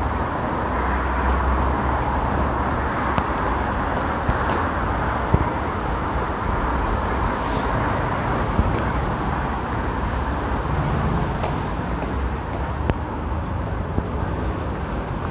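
Steady road traffic noise from passing cars, a continuous rumbling wash with a few faint clicks.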